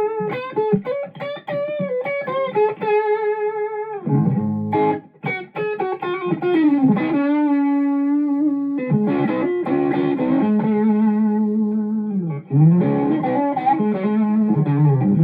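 Electric guitar played through a distortion pedal with a Super Sweet boost pedal engaged: quick single-note phrases, then a long held note with vibrato, then fuller chords near the end.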